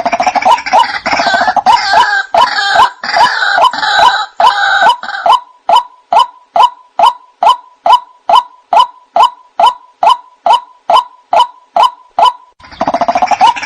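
White-breasted waterhen (ruak-ruak) calls played as a bird lure: an even run of short, repeated 'kwok' notes, nearly three a second. A denser, rougher chorus of calls lies over them for the first five seconds or so, drops out, then returns near the end.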